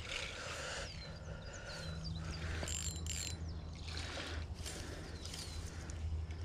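Small birds calling with short, repeated downward-sliding high notes, over a steady low rumble and a few brief rustles.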